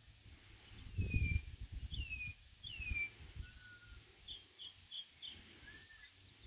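Scattered high bird chirps: three falling chirps about a second apart, then a lower held note, four short quick notes and a last arched chirp. Low rumbling thuds underneath, loudest about a second in.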